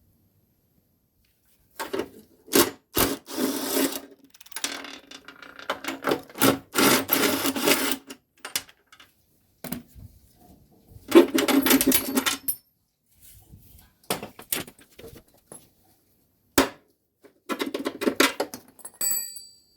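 Hand work on a lawnmower engine: scraping and rubbing strokes in bursts of about a second, broken by sharp clicks and knocks of tools and parts.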